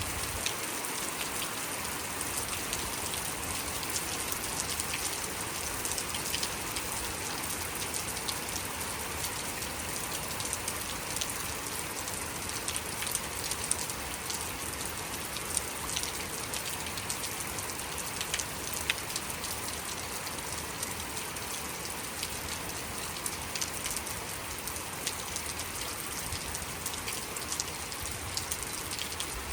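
Steady rainfall, an even hiss with many sharp drop ticks scattered through it as drops strike hard surfaces.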